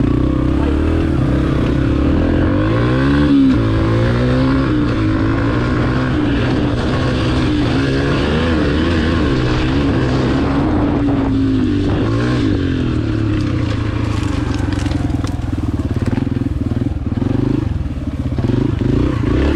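Small four-stroke dirt bike engine being ridden, revving up and dropping back repeatedly as the rider works the throttle and gears around the track.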